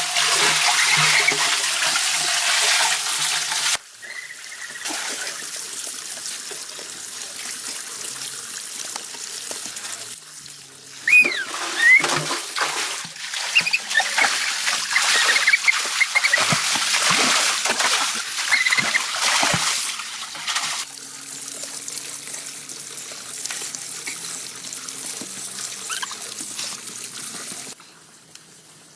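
Running water trickling and splashing, a steady rush that changes level at several sudden cuts, with a few short chirps in the middle.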